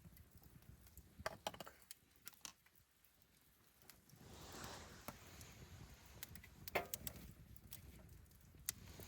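Wood fire crackling, with scattered sharp pops and clicks and a brief soft rush about four seconds in.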